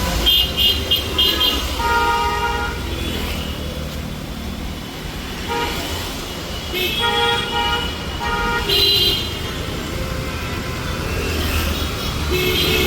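Busy city road traffic with several vehicle horns honking in short repeated beeps, some high-pitched and some lower, over a steady low engine rumble.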